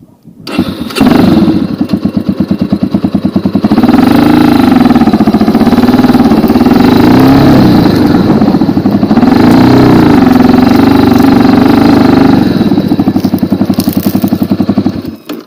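Racer 250 K2 dirt bike's single-cylinder four-stroke 172FMM engine running as the bike is ridden, revving up and down several times. The engine comes in suddenly about half a second in and cuts off near the end.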